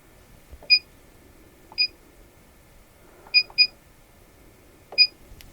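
Front-panel key beeps from an ITECH IT7321 programmable AC power source as its output is set to 100 volts: five short high beeps, each with a soft button click, two of them in quick succession about midway.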